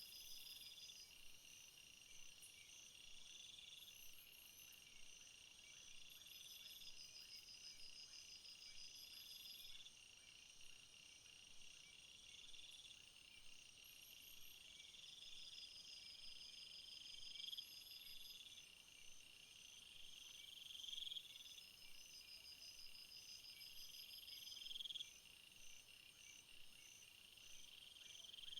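Faint chorus of field insects chirping: a steady high trill, with a louder buzzing phrase repeating about every three seconds and rows of quick pulses higher up.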